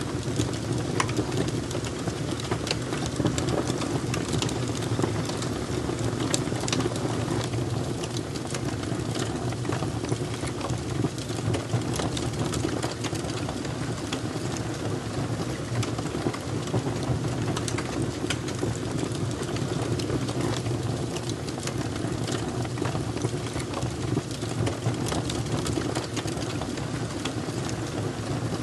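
Fire crackling: a steady low rush with frequent sharp pops and snaps scattered throughout.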